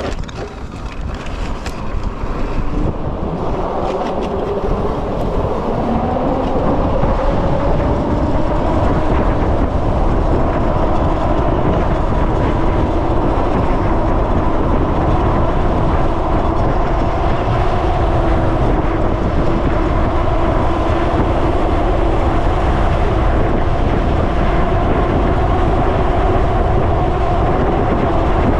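Freego X2 electric dirtbike at speed: the motor's whine rises over the first several seconds as it accelerates, then holds steady, over loud wind and tyre rumble.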